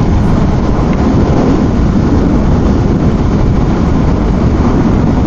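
Steady wind rush and road noise inside a motorcycle helmet at highway speed, picked up by a helmet-mounted intercom microphone.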